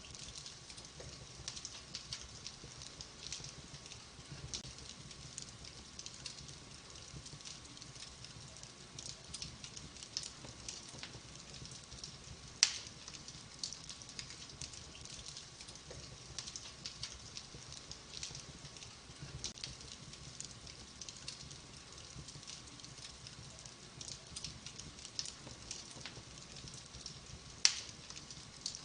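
Wood fire in a fireplace crackling steadily with many small snaps, and two much louder pops, one about twelve seconds in and one near the end.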